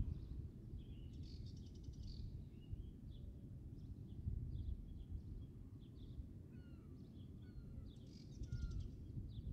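Small birds chirping and calling, with short slurred notes and two brief buzzy rattling calls, one about a second in and one near the end, over an uneven low rumble.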